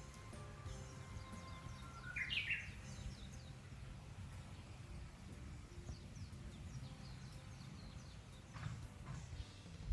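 Outdoor ambience of birds chirping, with one louder rising bird call about two seconds in, over a low rumble.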